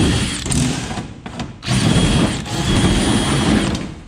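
Power drill running in two bursts: it stops a little over a second in, then starts again for about two seconds.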